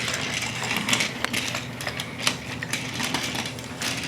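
Wooden toy train being pushed along a wooden track, giving irregular clicks and clatter over a steady low hum.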